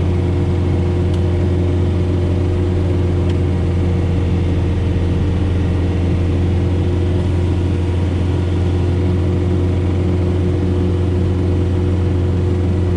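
John Deere 4066R tractor's diesel engine running at a constant speed, driving a Frontier SB1174 snowblower through the PTO: a steady, unchanging low drone with a few even tones above it.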